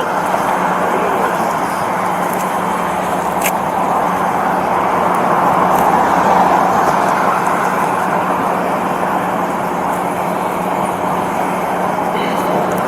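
Steady roadway traffic noise with a low constant hum underneath, and a single sharp click about three and a half seconds in.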